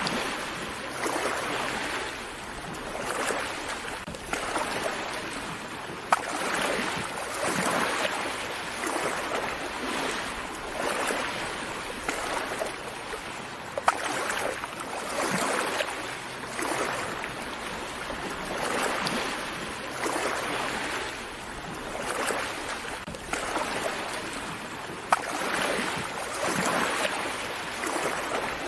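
Small sea waves washing onto a beach, the rush of water swelling and ebbing about every two seconds. Three sharp clicks stand out over the water.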